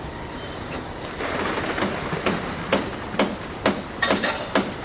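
Hammer blows, sharp knocks about two a second, starting a couple of seconds in over a steady background of site machinery noise.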